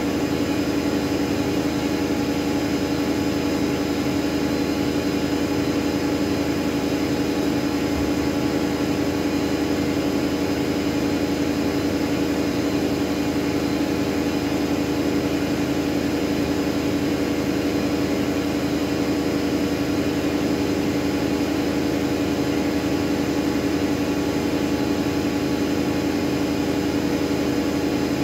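Miele W433S front-loading washing machine spinning at a steady high speed, its motor and drum giving an even whine with a strong low hum and no change in pitch.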